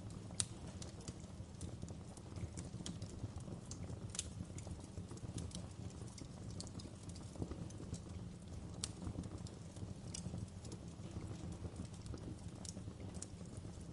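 Wood fire crackling in a fireplace: irregular sharp pops and snaps over a steady low rumble of the burning. The loudest pop comes about half a second in.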